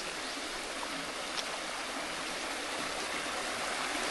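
Small waterfall and its stream rushing steadily.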